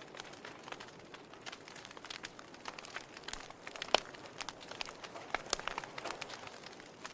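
Wood fire crackling in a fireplace: irregular sharp pops and snaps over a soft hiss, with one louder pop about four seconds in.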